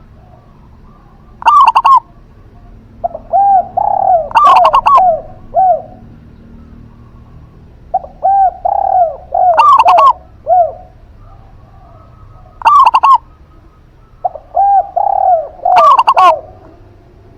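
Zebra dove and spotted dove cooing in turns and overlapping: three rolling phrases of lower coos, each a couple of seconds long, and about five short, loud, sharper calls cutting in among them.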